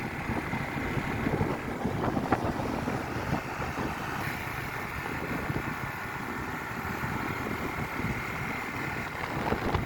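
A vehicle engine running steadily under a rushing noise, as when travelling.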